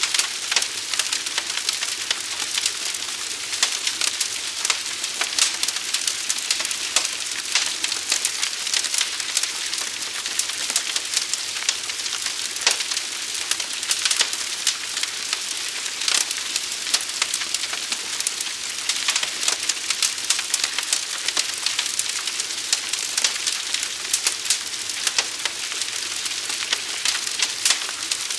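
Forest fire crackling: dense, irregular snaps and pops over a steady hiss.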